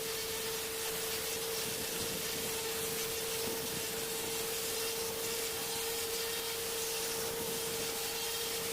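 Pressure washer spraying onto stone: a steady hiss of the water jet over a constant hum from the machine.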